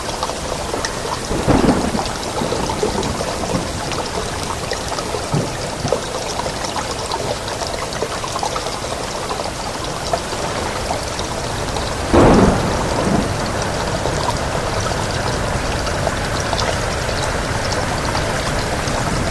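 Steady rain hissing, with two short claps of thunder, one about a second and a half in and a louder one about twelve seconds in.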